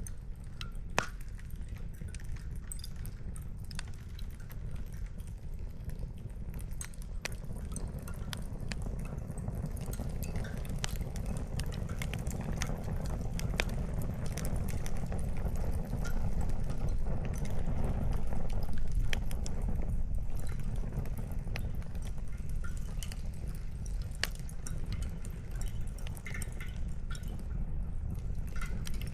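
Wood campfire crackling: scattered sharp pops and snaps of burning firewood over a steady low rumble, with one sharper pop about a second in.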